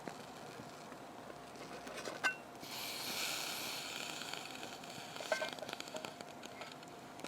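Faint steady hiss of cooking over a wood fire, with a louder hiss swelling for about two seconds near the middle. Light metal clinks ring out about two seconds in and again about five seconds in.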